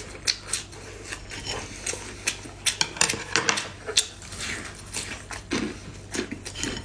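Close-up eating sounds: crunchy bites and chewing of crisp food, an irregular run of sharp crackles several times a second.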